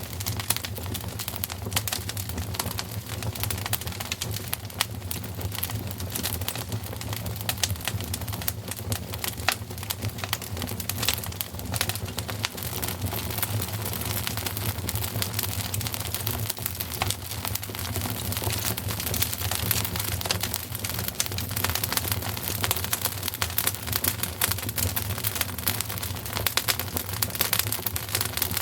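Wood fire crackling steadily, a dense run of small pops and snaps over a low rumble.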